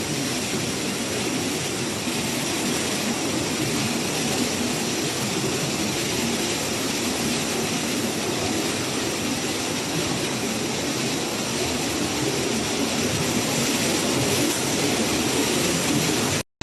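Steady roar of typhoon wind and heavy rain, an even unbroken rush. It cuts out for a moment near the end.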